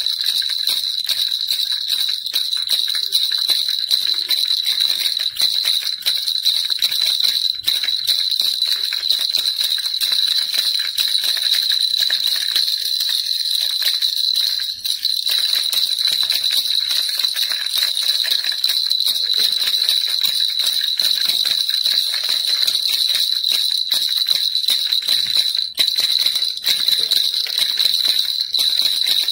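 Baby rattle shaken continuously: a fast, unbroken jingling rattle with a bright ringing.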